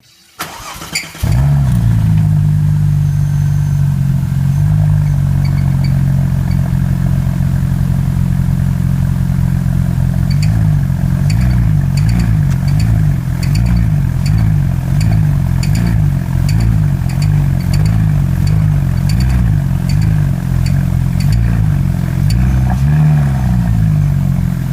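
A Porsche engine starts about a second in and settles into a steady idle. From about ten seconds in its pitch wavers up and down in an even rhythm, a little under twice a second, with a light tick at regular intervals. This is the unexplained weird sound the owner is asking about.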